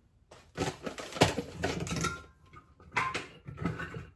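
Kitchen clatter of containers and a spoon being handled: a run of knocks and clinks, some with a brief ring, as walnuts and raisins are got out and scooped.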